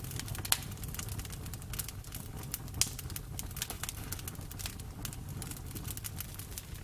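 Bonfire crackling: a dense run of small irregular pops and snaps over a low, steady rumble of flames, with two sharper pops, one about half a second in and one near three seconds.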